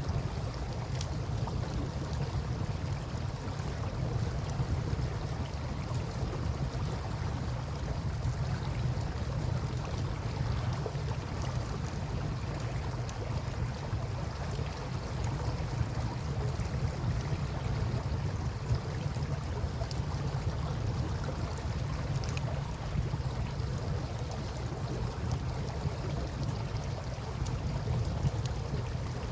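Campfire crackling with a few scattered pops over the steady rush of river water and a low, even rumble.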